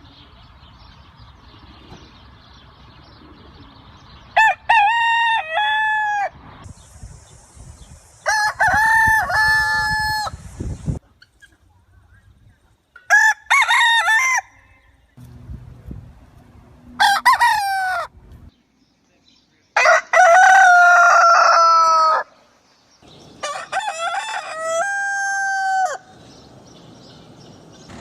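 Roosters crowing cock-a-doodle-doo, six separate crows of a second and a half to two and a half seconds each, from different birds, with short lulls between them.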